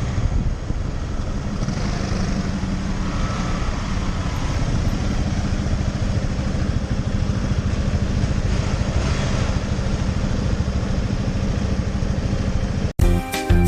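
A 125cc motorcycle's engine running steadily, with wind and road noise. About thirteen seconds in it cuts off abruptly and music starts.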